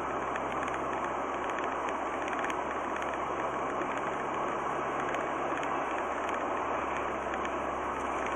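Steady road and engine noise of a car driving, as heard from inside it, with no impact.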